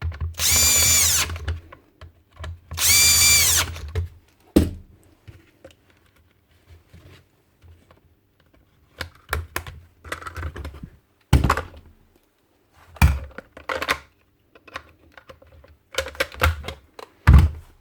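Cordless drill/driver running twice, about a second each, with a steady whine, then scattered clicks and knocks of parts being handled and fitted.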